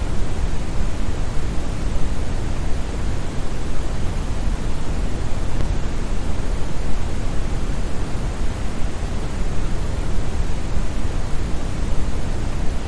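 Continuous synthetic brown noise: a steady, deep rushing hiss, heaviest in the bass and thinning toward the treble, with no changes.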